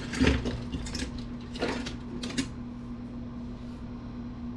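A few sharp clicks and clatters of small pieces of computer scrap being handled and set down, over a steady low hum.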